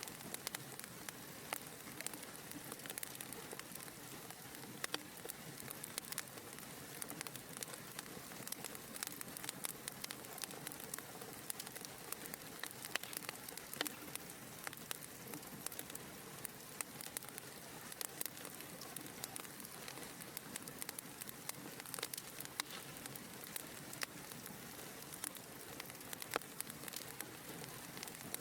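Fire crackling in a fireplace: a steady soft hiss of flames with frequent sharp pops and snaps.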